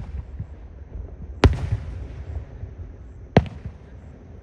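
Fireworks bursting overhead: two sharp booms about two seconds apart, the first followed by a low rumble.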